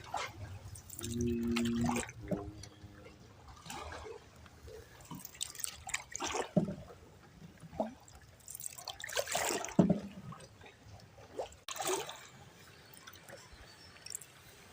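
Canoe paddle strokes on calm canal water: irregular splashes and trickling drips off the blade, a few seconds apart. A short steady tone sounds about a second in.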